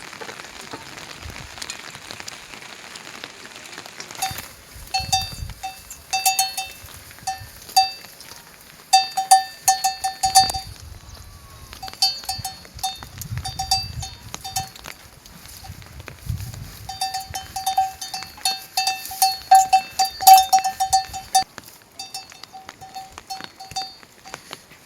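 Rain falling steadily, then from about four seconds in a metal livestock bell clanking in quick, irregular runs of strikes, as an animal wearing it moves.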